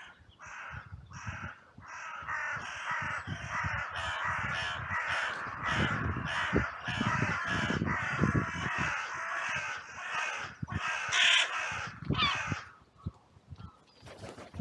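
Many crows cawing at once. Separate calls near the start soon crowd into a dense overlapping chorus that is loudest toward the end, then breaks off.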